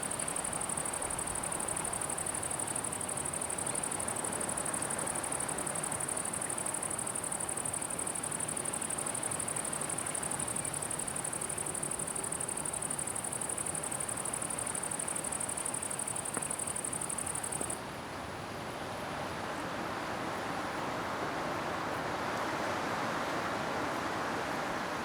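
A cricket giving a continuous high-pitched buzz, which stops suddenly about two-thirds of the way through, over steady wind rustling through grass and leaves. The wind swells near the end.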